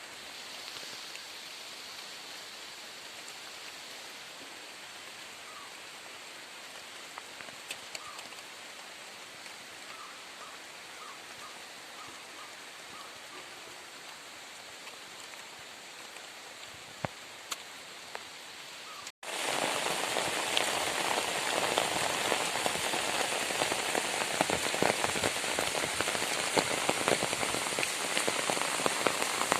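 Rain falling, at first a steady, gentle hiss; after an abrupt cut about two-thirds of the way through it is heavier and louder, with a dense patter of drops.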